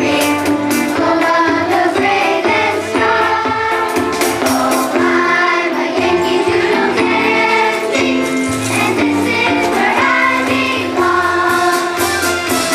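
A choir singing a song with instrumental accompaniment, holding steady notes throughout.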